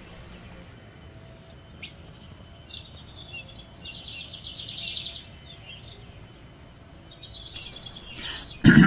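Wild birds chirping in the background, with a quick high trill about four seconds in.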